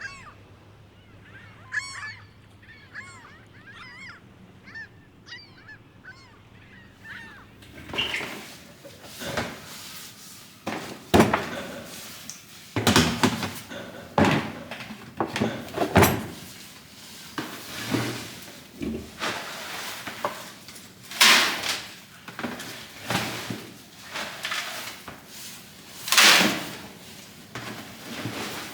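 Farmyard fowl calling: a run of loud, harsh, honking calls at irregular intervals that starts about eight seconds in. Before that there are only faint, high chirping calls.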